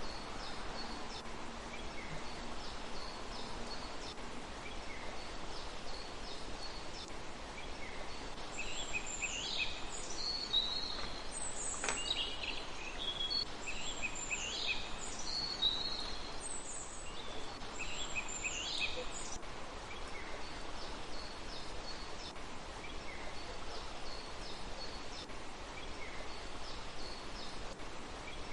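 Small birds calling: bursts of short, high, sliding chirps, busiest in the middle, with fainter short calls before and after, over a steady background hiss.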